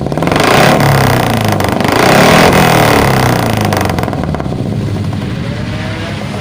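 Carbureted Suzuki Futura four-cylinder engine revved through a new 4-3-1 header and HKS muffler, its exhaust note climbing and falling a couple of times, then dropping back to a steady idle about four seconds in.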